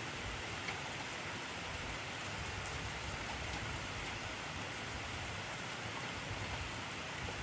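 Heavy rain falling steadily, a dense hiss of drops with scattered small taps on a surface.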